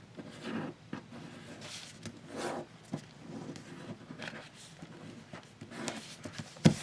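A sheet of paper rustling and being creased by hand as it is folded, in several short scratchy swishes, with a sharper thump near the end.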